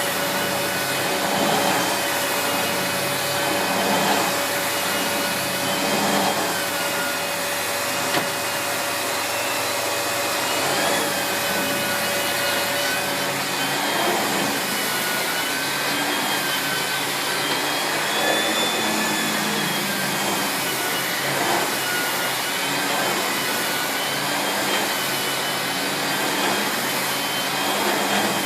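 Miele S8730 (C3 Complete) cylinder vacuum cleaner running steadily while its floor head is pushed back and forth over carpet. The brushing swells in rhythm with each stroke, about every two seconds, and the motor whine wavers slightly in pitch.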